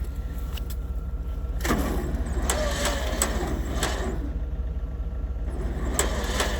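An engine running steadily at low speed, with a string of sharp clicks and knocks over it from about two and a half seconds in.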